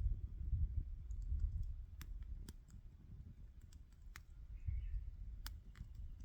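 Wood campfire crackling: a handful of sharp, irregular pops over a low, steady rumble.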